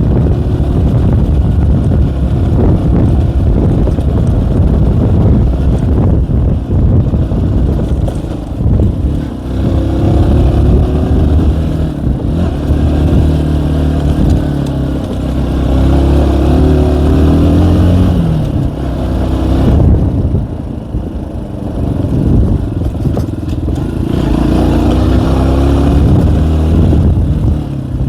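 K Moto ATX motorcycle engine running as it is ridden uphill, over a heavy low rumble. Its note rises and falls with the throttle, most plainly in the middle stretch and again near the end.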